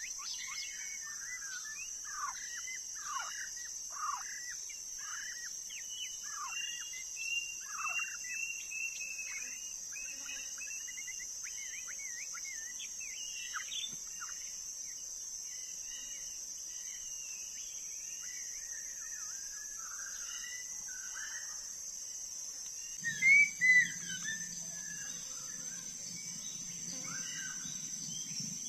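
Songbirds singing: a dense run of varied whistles, trills and chirps that thins out midway, with two louder calls about 23 seconds in. A steady high-pitched insect buzz runs underneath.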